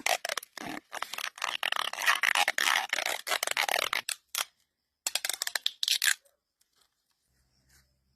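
Rapid scraping and rubbing: a dense run of scratchy strokes lasting about four seconds, then a shorter burst about a second later.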